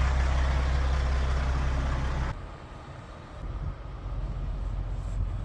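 Heavy truck's diesel engine running with a deep, steady rumble. About two seconds in it drops suddenly to a much fainter low engine rumble.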